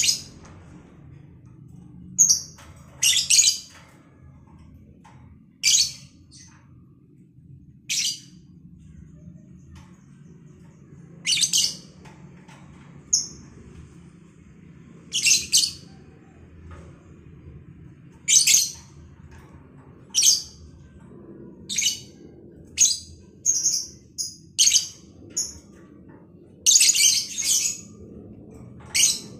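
A pair of lovebirds giving sharp, shrill, high-pitched calls, about eighteen scattered irregularly, some single short chirps and some longer chattering calls of about a second. A faint low hum sits underneath.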